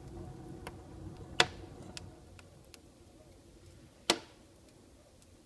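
Wood fire burning in a newly built fireplace's firebox, crackling with scattered small ticks and two loud sharp pops, about 1.4 and 4 seconds in. A low rumble fades away over the first couple of seconds.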